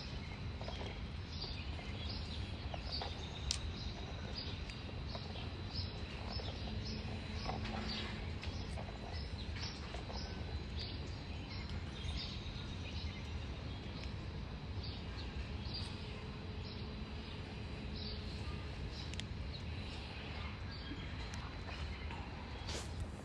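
A bird chirping over and over in short high notes, about one or two a second, over a steady low background hum of outdoor noise.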